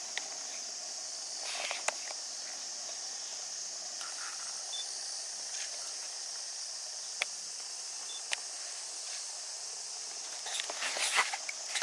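Cicadas in a steady, high sizzling chorus. There are a few sharp clicks, and a patch of footsteps and rustling near the end.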